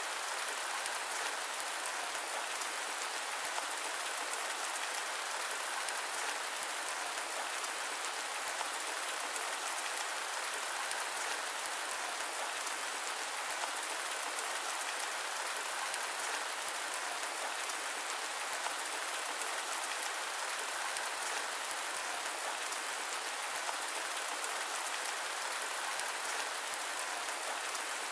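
Steady rain, an even hiss blended with white noise, unchanging throughout and with no low rumble.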